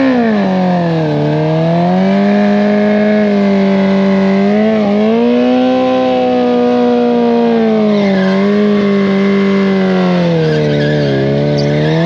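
Drag-racing motorcycle engine held at high revs with tyre squeal, the pitch sagging and rising slowly over several seconds: a burnout to heat the rear tyre before a run.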